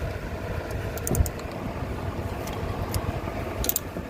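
Socket and ratchet breaking a rear brake caliper pin bolt loose: a thud about a second in and a few sharp metallic clicks, over the steady rumble of a cooling fan.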